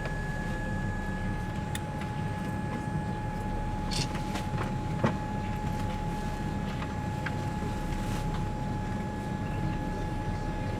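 Boeing 787 airliner cabin noise: a steady low rumble of air and engines with a steady high-pitched whine over it, and a couple of short clicks about four and five seconds in.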